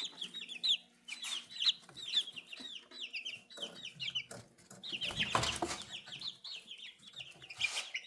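Young chicks peeping continuously, many short falling peeps a second, with a brief rustle about five seconds in.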